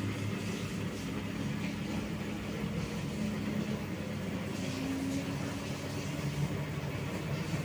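LG F2T9GW9P direct-drive washing machine running its separate spin cycle: a steady hum from the motor and turning drum, with low tones that shift slightly in pitch.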